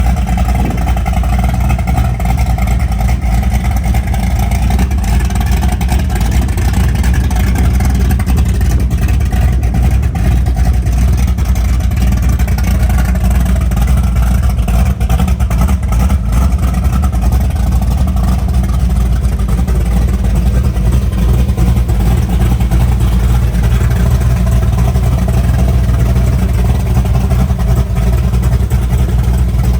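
Big-block 460 cubic-inch Ford V8 with headers, running steadily and loudly without any clear revs.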